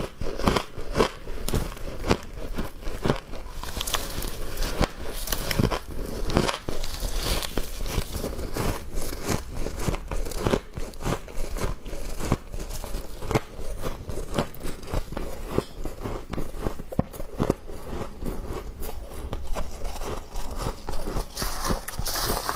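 Close-up biting and chewing of thin ice and fresh frost: a continuous run of sharp crunches and crackles.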